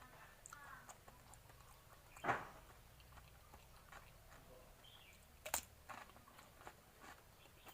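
A person chewing and biting a mouthful of raw-shrimp salad, with one sharp crunch about two seconds in and another short crisp click about five and a half seconds in.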